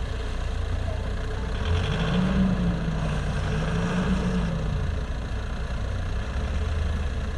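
Motor vehicle engine idling with a steady low hum. Its pitch rises and falls briefly a couple of seconds in.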